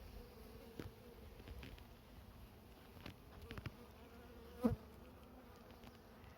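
Honey bees buzzing on a hive frame held out of an open hive, a faint steady hum. A single short sharp knock about two thirds of the way in.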